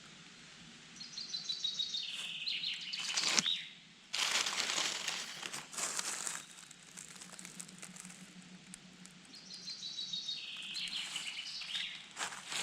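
A songbird sings a short phrase of descending trills ending in a flourish, twice, about eight seconds apart. Between the songs there is loud rustling and crackling of forest-floor litter.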